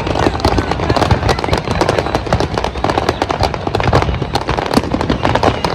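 Fireworks display: a dense, continuous barrage of rapid bangs and crackling pops.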